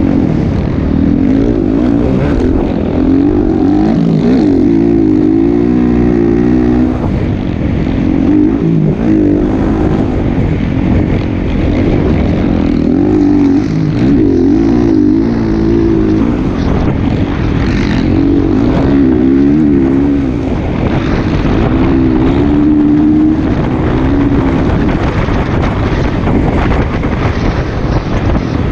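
Motocross bike engine running hard, its buzzy pitch wavering up and down in repeated surges as the throttle is worked.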